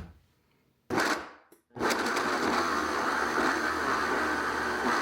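Countertop blender blending a thick smoothie-bowl mix of cherries and banana. A short burst comes about a second in and fades quickly, then the motor starts again less than a second later and runs steadily at a constant level.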